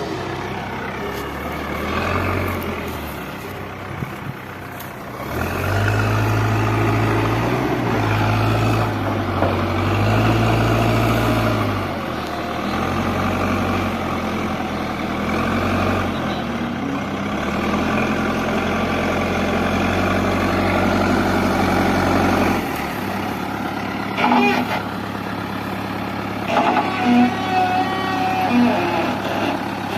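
JCB 3DX backhoe loader's diesel engine running as it digs, its note rising and falling with the hydraulic load. It labours hardest from about six to twelve seconds in and eases off near the end.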